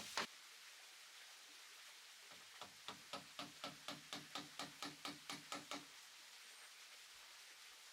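Hand tool striking wood in a quick, even rhythm, about four blows a second for some three seconds, with a low ringing note under the blows. One more blow lands right at the start.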